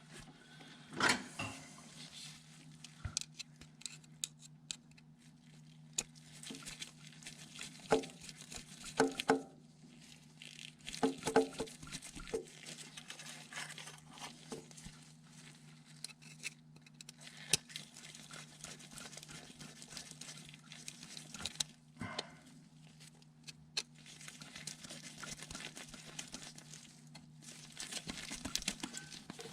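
Scattered clicks, light metal taps and rustling of hands fitting hose clamps onto a fuel hose, a few louder handling knocks among them, over a steady low hum.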